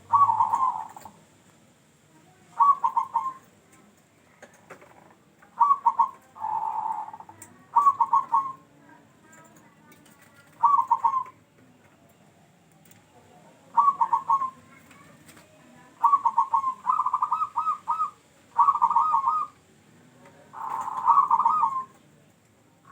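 Zebra dove (perkutut) cooing: short phrases of quick warbled notes, repeated every one to three seconds, with the phrases coming closer together in the second half.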